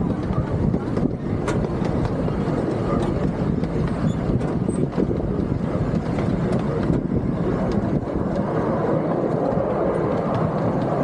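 Miniature park train with open passenger cars rolling along its track: a steady rattling rumble of wheels and cars, with scattered faint clicks.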